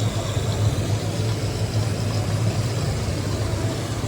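Steady low mechanical drone, like an engine running at idle.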